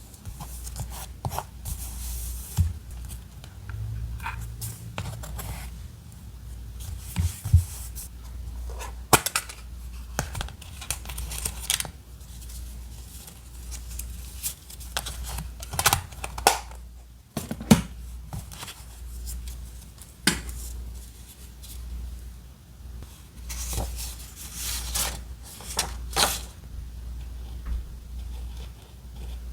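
Paper crafting at a desk: paper snipped with scissors, rustled and torn, with scattered light taps and clicks, over a steady low hum.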